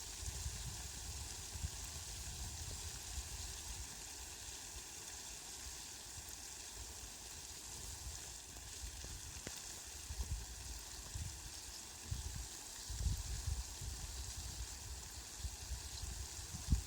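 Rain falling, a steady even hiss, with irregular low rumbles that grow stronger in the second half.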